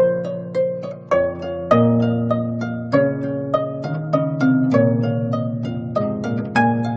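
25-string gayageum played solo: quick runs of plucked notes ringing over low bass notes that shift every second or two.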